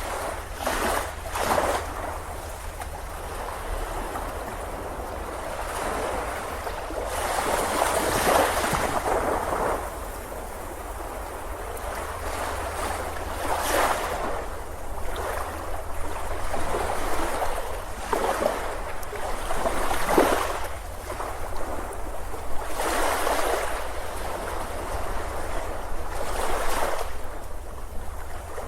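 Ocean waves breaking on a beach, the surf swelling and washing out again every few seconds, over a steady low rumble.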